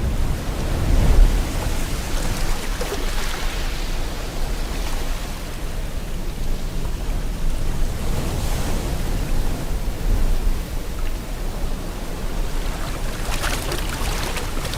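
Ocean waves washing ashore under steady rain: a continuous hiss that swells and eases, with a heavy surge about a second in and a bright hissing wash near the end.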